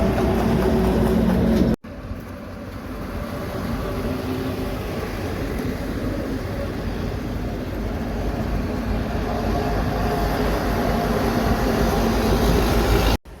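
Heavy trucks passing on a road. A steady truck engine drone cuts off abruptly about two seconds in. A second stretch of engine and road rumble then builds slowly louder and cuts off near the end.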